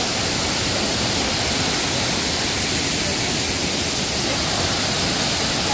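Kuang Si waterfall cascading into its pools: a steady rush of falling water with no breaks.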